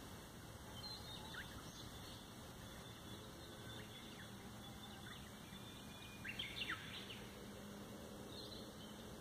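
Scattered short bird chirps over a faint steady outdoor background, a few quick sweeping calls here and there, with the loudest pair about six and a half seconds in.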